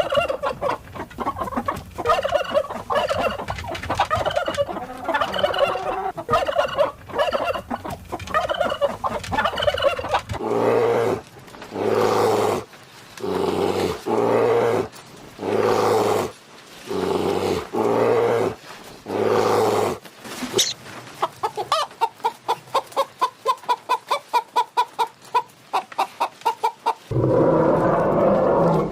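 Domestic fowl calling: first a dense run of overlapping calls, then a string of about eight separate calls roughly a second apart, then rapid clucking pulses about four a second.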